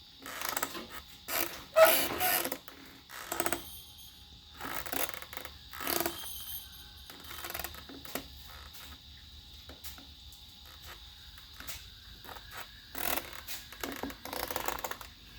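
Front brake on a 1983 Harley-Davidson Shovelhead Electra Glide rubbing as the bike is rolled backward with the engine off: scraping in bursts, with quieter gaps, from a spot where the rotor drags. The owner takes it for a warped rotor or a dragging brake.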